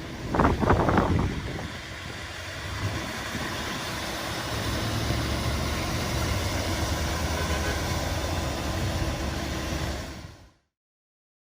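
Vehicle engine running steadily under a haze of outdoor noise, with a brief louder sound about half a second in; the sound cuts off suddenly near the end.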